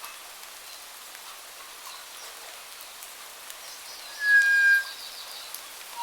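Songbird calls over a steady rain-like hiss with faint scattered drips: a rapid high trill around four seconds in and, at the same time, one loud, clear, level whistled note lasting about half a second.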